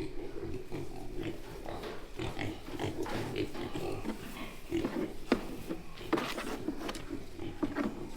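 A pen of piglets grunting over and over, stirring after being woken from sleep, with short sharp sounds scattered through, most of them in the second half.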